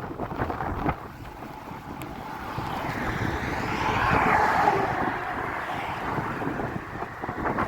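Strong wind buffeting the microphone of a hand-held phone, a rough rumbling rush. A louder rushing swell builds to a peak about four seconds in and then fades.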